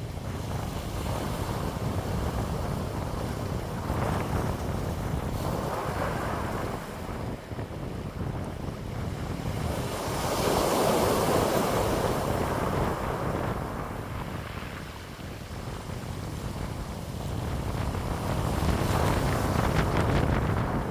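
Wind blowing in gusts, a rushing noise that swells and fades every few seconds, with the strongest gust about halfway through.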